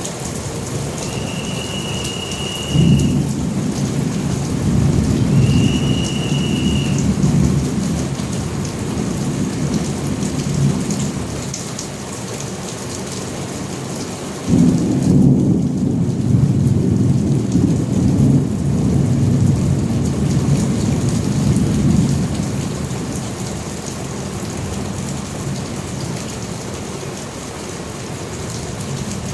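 Steady heavy rain with two thunderclaps, each starting suddenly and rumbling on for several seconds, the first about three seconds in and the second about halfway through. Two short, steady high tones sound early on.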